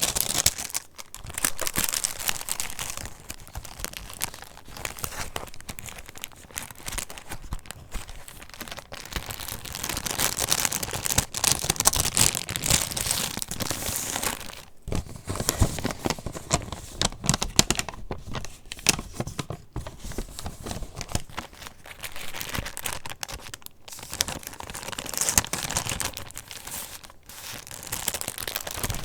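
Paper pages of a handmade junk journal being handled and turned: irregular rustling and crinkling with small taps, easing off in a few short pauses.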